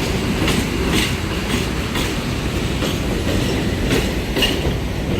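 New York City Subway 6 express train running at speed: a steady low rumble with regular wheel clacks over rail joints, about two a second.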